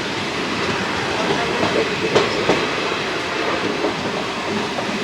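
Passenger train with ICF coaches running on the track: a steady rumble with a few sharp clicks of the wheels over rail joints, the clearest about two seconds in.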